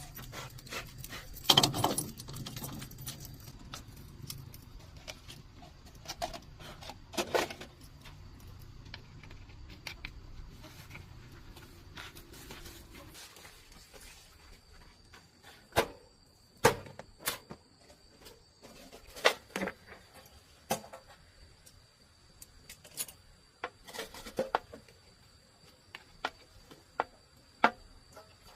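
Scattered metallic clinks and knocks of tools and parts being handled during hands-on repair work, the loudest about a second and a half in. A faint steady high tone runs underneath, and a low hum fades out about halfway through.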